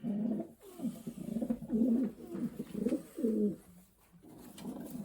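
Racing pigeons cooing, a string of low coos one after another with a brief pause near the end.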